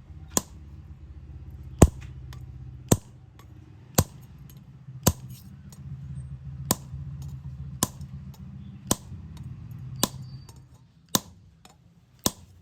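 Hammer blows striking metal, eleven sharp ringing strikes at about one a second, over a low steady hum that stops about ten and a half seconds in.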